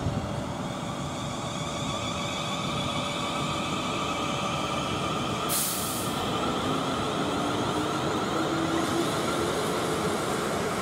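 South Western Railway Class 450 electric multiple units on the move: a steady rumble of wheels on rail. An electric traction whine rises slowly in pitch from about the middle, and a short hiss of air comes about halfway through.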